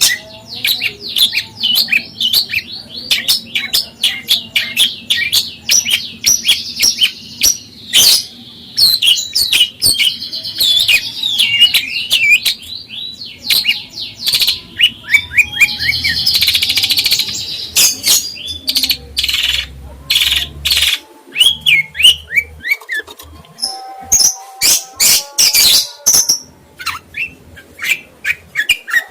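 A caged songbird singing a long, busy song of rapid chirps, trills and whistled notes, with a harsher, buzzier passage about halfway through and many sharp clicks in between.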